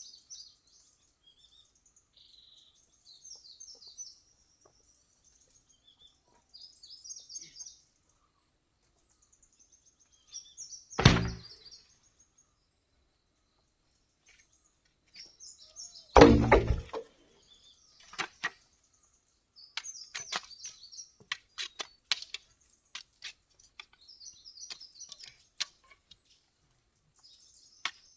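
Small birds chirping in short high phrases throughout. Two loud heavy thuds about 11 and 16 seconds in, then a scatter of light taps and clicks.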